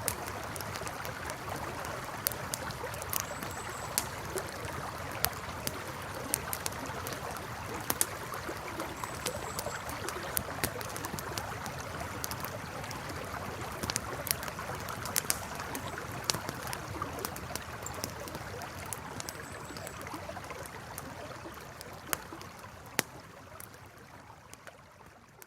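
Campfire crackling with scattered sharp pops over the steady rush of a flowing river. The sound fades out near the end.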